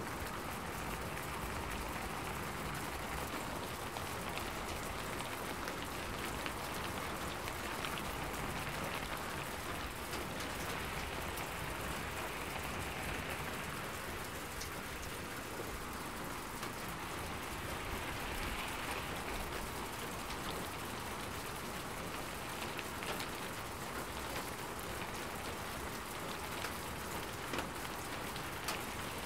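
Gentle rain falling steadily: an even hiss with scattered patter of drops.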